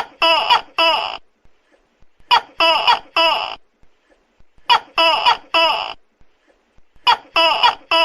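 Tokay gecko calling loudly, short pitched calls in clusters of three or four, a new cluster about every two and a half seconds.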